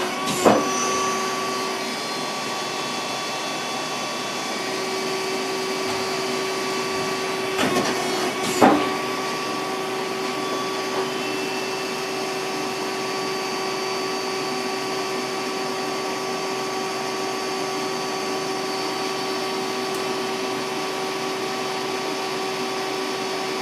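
Samsung PL10 CNC lathe running an empty program cycle: a steady machine hum with a steady whine. A few short knocks come about half a second in and again around eight seconds in.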